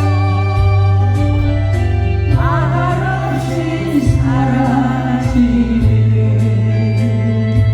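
A song: singing with a wavering vibrato over an instrumental backing with long held bass notes.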